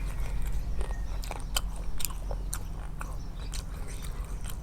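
A person chewing and biting food close to the microphone: irregular crisp crunches and wet clicks.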